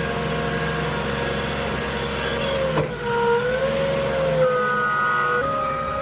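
Delivery truck running on the road, heard from inside the cab: a steady engine and road rumble with a whine that drifts slowly up and down in pitch.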